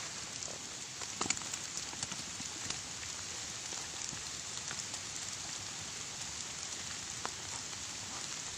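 Steady rain falling, a constant hiss with scattered drop taps, a few sharper ones a little over a second in.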